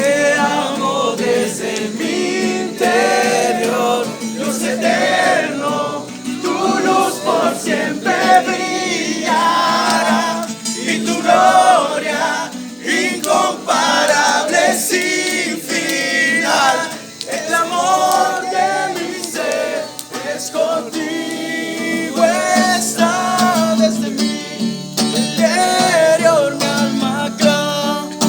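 Spanish-language Christian worship song: voices singing over acoustic guitar.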